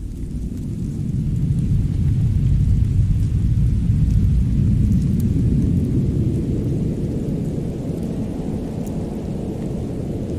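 Low rumble of wind, swelling over the first few seconds and slowly easing, with a few faint fireplace crackles over it.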